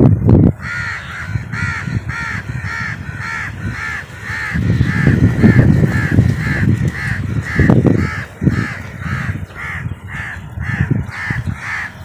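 A bird giving a steady series of harsh, crow-like caws, about two or three a second, without a break. A knock comes right at the start, and low rumbling noise rises in the middle.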